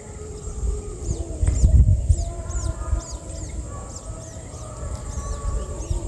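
Long-tailed shrike nestlings chirping: a run of short, high, downward-sliding cheeps, several a second. Underneath is a low rumble, loudest about a second and a half in.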